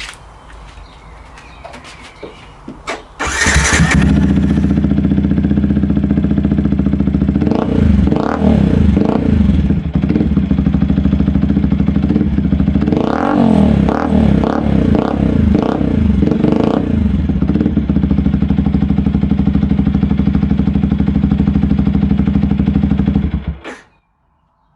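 A Yamaha YZF-R125's single-cylinder 125cc engine, fitted with a LeoVince slip-on exhaust, starts about three seconds in after a few faint clicks and idles. It is revved in short blips, a few times around eight seconds in and several more times a little later, then settles back to idle. It is switched off and cuts out abruptly near the end. The bike is very loud for a 125cc.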